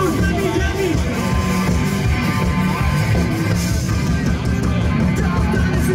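A live cover band playing rock music, with electric guitar and a steady beat.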